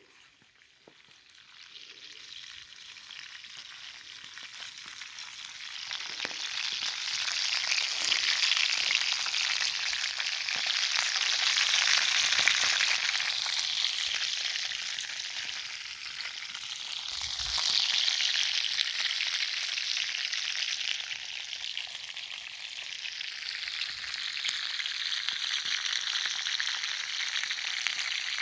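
Campfire burning with a dense hissing crackle, swelling from faint over the first few seconds to loud as the fire catches and flares.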